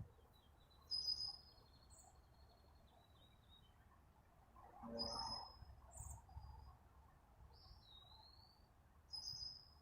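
Faint songbird chirping: short high notes every second or few, one of them a slurred note dipping and rising near eight seconds, with a thin steady high note held for a few seconds near the start. A brief low sound comes about five seconds in.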